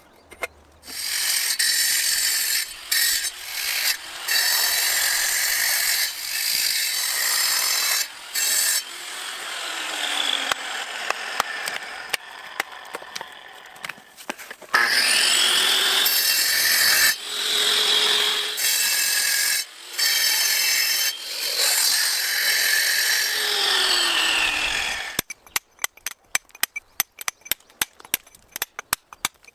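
Angle grinder cutting into volcanic stone in several long passes, stopping briefly between them, its whine rising as it spins up and falling as it winds down. Near the end it gives way to a fast run of sharp clicking taps.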